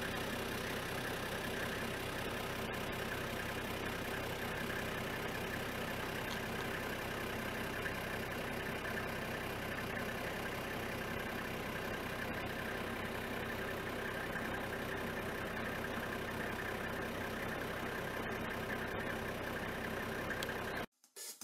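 A vehicle engine idling steadily, with a faint hum running through it, cutting off abruptly near the end.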